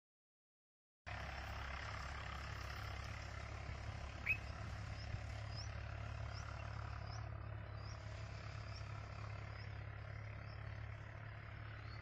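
Steady low hum and background noise start about a second in. Over them a bird gives short, high, rising chirps, repeated about once a second from about five seconds in, after one louder single chirp about four seconds in.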